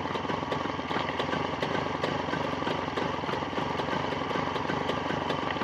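Jawa 634 two-stroke twin-cylinder motorcycle engine idling steadily, a newly assembled engine still being run in.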